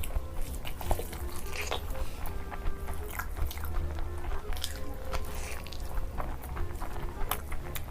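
Close-miked biting and crunchy chewing of food, many sharp irregular crunches, over background music with held notes.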